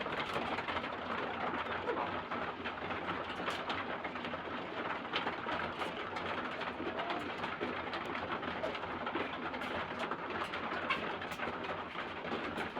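A flock of caged laying hens clucking softly and continuously while feeding, with many scattered small clicks of beaks pecking at the feed.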